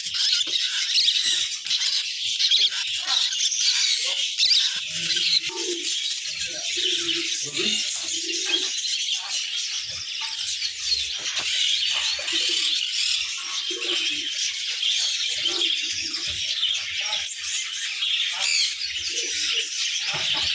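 Many small caged birds chirping at once in a dense, unbroken chatter, with low murmuring voices underneath.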